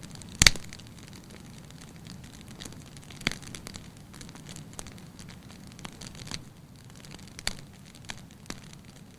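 Wood fire burning with a low steady rumble and scattered crackles and pops, the loudest a sharp pop about half a second in.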